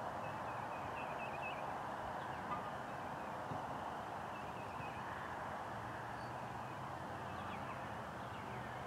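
Faint bird chirps in a few short clusters, over a steady outdoor background hiss.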